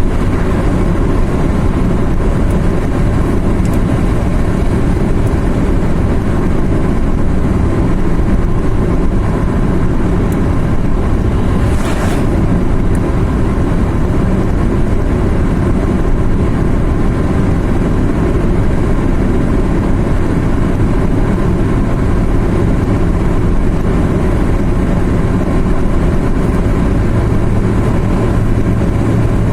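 Car driving on a mountain road, its engine and tyre noise a steady, dense rumble. A short hiss comes about twelve seconds in.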